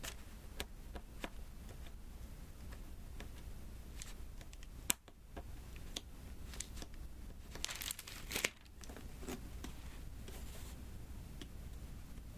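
Diamond painting: scattered light clicks of small resin drills being pressed onto the sticky adhesive canvas, with one sharp click about five seconds in. Around eight seconds there is a short crinkly, tearing sound.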